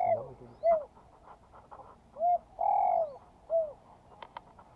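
Spotted dove cooing, the same three-note phrase twice: a short coo, a longer drawn-out coo, then another short coo. A couple of faint clicks come near the end.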